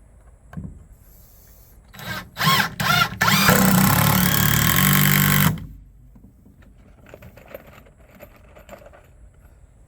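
Cordless drill running into wood: two short trigger pulls, then a steady run of about two seconds that stops suddenly.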